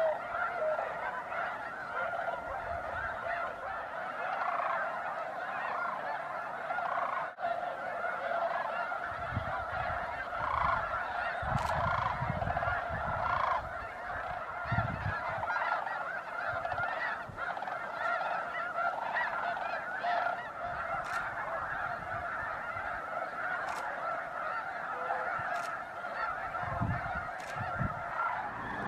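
A large flock of snow geese calling without pause: a dense chorus of many overlapping honks.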